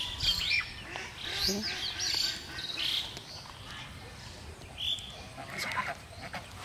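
Birds calling: a run of short, high calls in the first three seconds, then fewer calls later.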